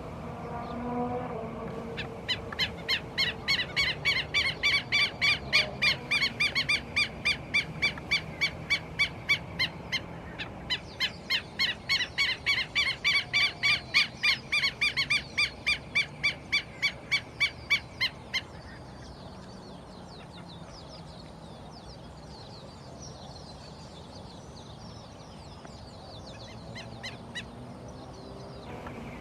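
Bird calling loudly in two long series of evenly repeated notes, about three a second, each series lasting several seconds. Fainter quick calls follow.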